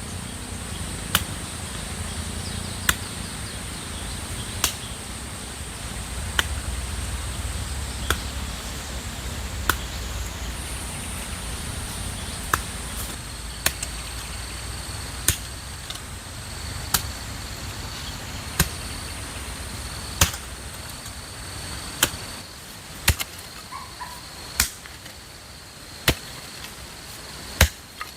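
A digging tool chopping into soil in a steady rhythm, one stroke about every second and a half to two seconds, as a vegetable bed is dug by hand. A steady high insect drone runs underneath.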